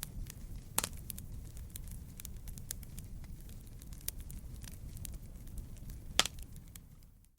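Wood fire crackling in a fireplace: a steady low rumble of burning with many small crackles and two sharp pops, about a second in and near the end, before the sound fades out at the very end.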